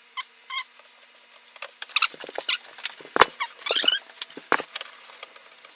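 Water supply line fitting under a dishwasher being worked loose: two short high squeaks, then a run of clicks, knocks and scraping with a few more squeaks as the line comes off.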